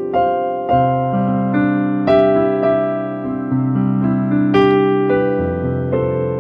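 Keyboard playing slow, sustained chords, a new chord struck every second or two with the notes left ringing.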